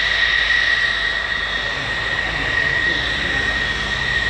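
Aircraft turbine engine running steadily: a constant high whine over a broad rush of engine noise, with no change in pitch.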